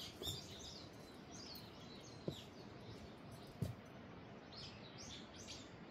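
Small birds chirping in short, quick downward calls over a faint steady background hiss, with two soft knocks about two and three and a half seconds in.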